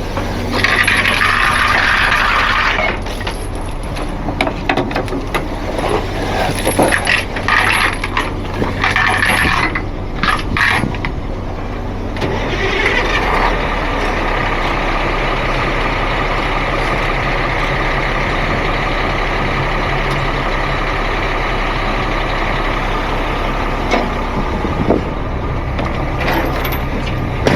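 Heavy truck's engine running at idle, with bursts of hissing in the first half and a steady hiss from about halfway in.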